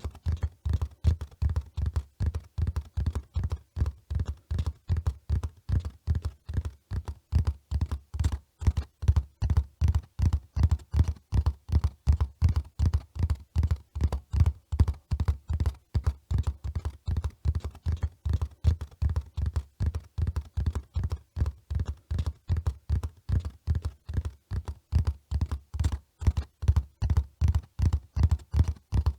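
Hoofbeats of a running horse: an even, rapid rhythm of dull, heavy thuds that keeps up steadily.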